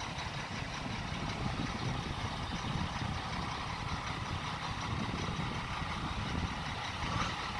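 Logging truck's engine idling steadily.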